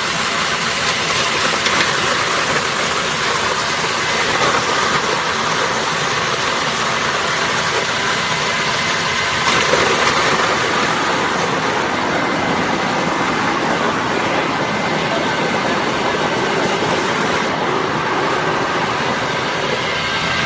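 Coconut meat (copra) grinding machine running, crushing coconut into powder with a steady, loud, dense machine noise.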